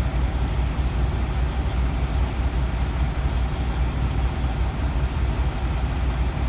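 Steady low rumble of an idling vehicle engine, with no change in pitch or level.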